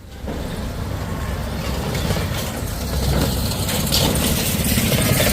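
Motor vehicle running: a steady low rumble of engine and road noise that starts suddenly and grows gradually louder.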